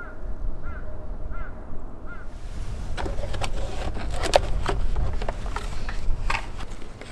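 A bird gives four short, evenly spaced calls over a low rumble; a little over two seconds in they stop and give way to rustling with many sharp clicks and crackles.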